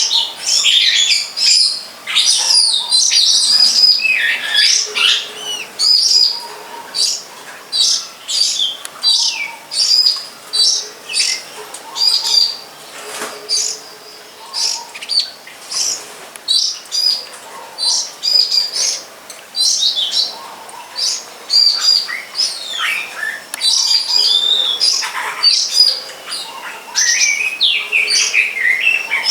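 Songbirds singing close by: a continuous run of short, high, sharp notes, several a second, mixed with varied chattering phrases.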